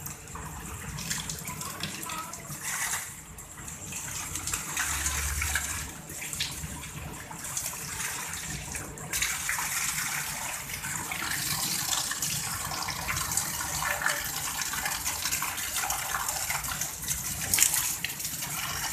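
Heavy rain pouring down, a steady rushing hiss that grows louder about halfway through.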